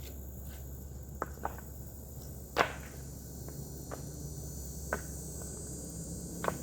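About six sharp, scattered knocks of hand landscaping work, hard tools and rocks striking firm ground, the loudest about two and a half seconds in, over a low steady hum.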